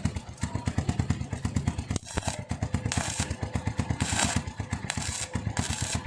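Motorcycle engines running through one shared exhaust, with rapid, even exhaust pulses. Several short bursts of hiss come in the second half.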